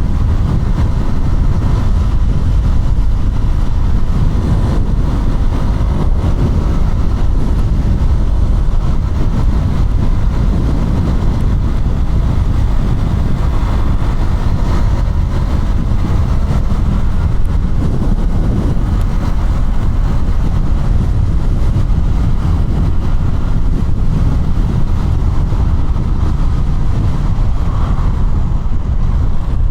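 KTM Duke 200's single-cylinder four-stroke engine running steadily while riding, under a loud low rumble of wind on the camera microphone.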